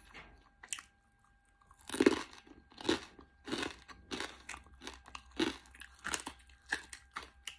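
Crispy roast pork skin (lechon belly crackling) being bitten and chewed close to the microphone: a run of crisp crunches, roughly two a second, starting about two seconds in, the first bites the loudest.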